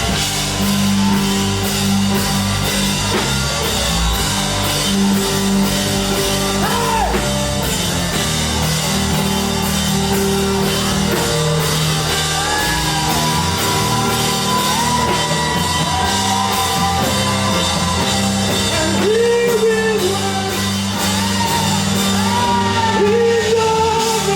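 Live worship band playing with drums, keys and bass, while a singer sings freely over the music.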